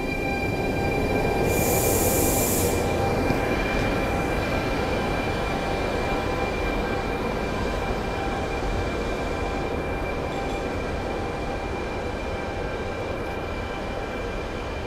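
Passenger train rolling slowly through the station, its wheels squealing in steady high tones over a low rumble. A short hiss comes about two seconds in, and the sound slowly eases after that.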